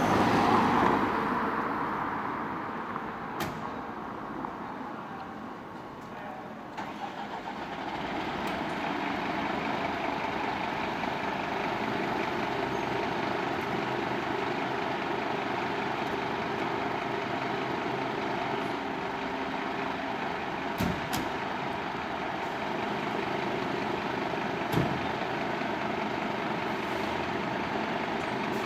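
Scania fire engine's diesel engine running, louder in the first second or two, then settling into a steady idle, with a few short clicks and knocks.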